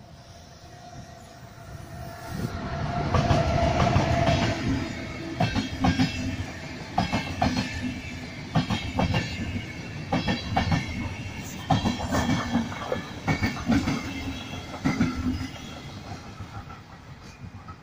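Intercity passenger train hauled by an electric locomotive passing by. It builds up about two seconds in and is loudest as the locomotive goes past, then the coaches follow with sharp clicks of the wheels over the rail joints, coming in groups, until the sound fades near the end.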